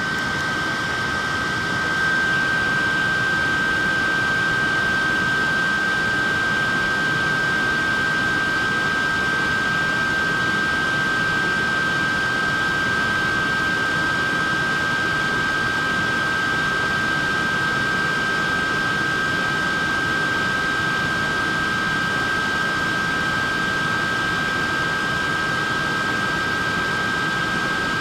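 Portable neck fan running steadily: an even rush of air with a steady high whine from its small motor and blades.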